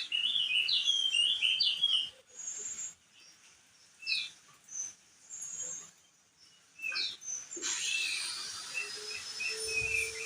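Crested heleia (opior jambul) singing: a quick run of chirpy notes in the first two seconds, then scattered single high notes with pauses. From about eight seconds a fast chattering series starts under a long, high, steady whistle.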